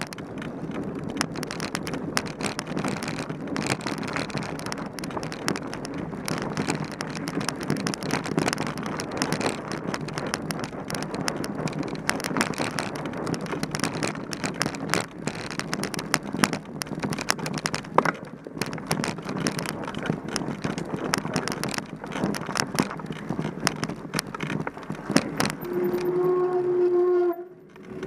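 Mountain bike ridden over rough trail, with constant rattling and knocking from the bike over tyre and wind noise. Near the end comes a short, steady, high squeal, then the noise drops out briefly.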